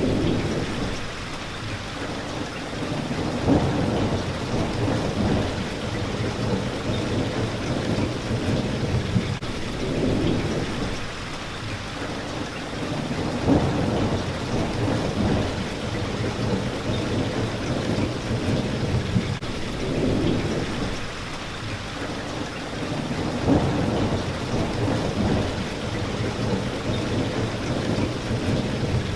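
Steady rain hitting a window pane, with low rolling thunder swelling up and fading away every few seconds.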